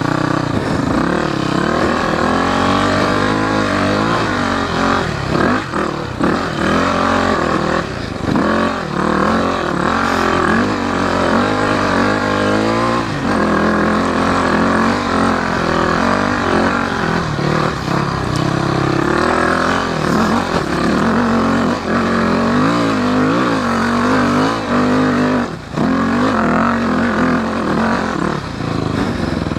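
2000 Yamaha WR400F dirt bike's four-stroke single-cylinder engine being ridden off-road. Its pitch rises and falls constantly as the throttle is worked, with frequent brief dips where the throttle is shut.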